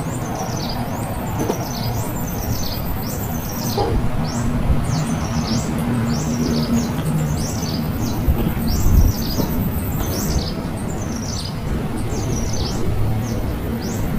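Small birds chirping: a continuous run of short, high chirps, each sliding down in pitch, about two to three a second, over a steady low background rumble.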